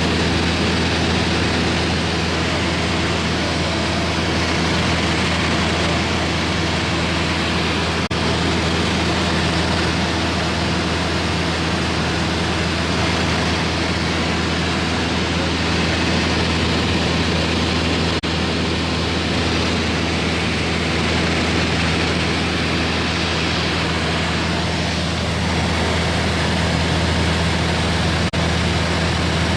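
Steady engine drone inside an airplane cabin in flight: a constant low hum with even rushing air noise, unchanging throughout.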